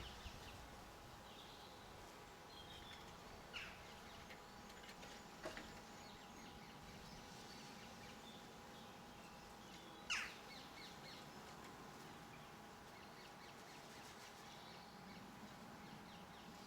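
Faint garden birdsong and chirps, broken by three short, sharp bird calls, the loudest about ten seconds in.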